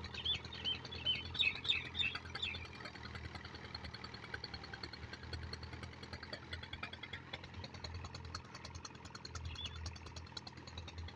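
Small birds chirping in quick short calls, thickest in the first couple of seconds and sparser after, over a steady low hum.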